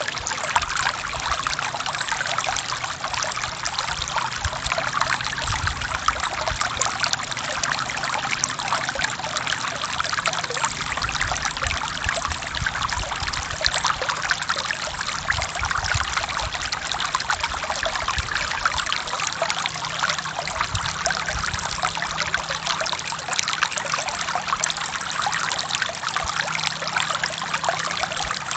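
Forest stream running over rocks: a steady, unbroken trickling and splashing of water.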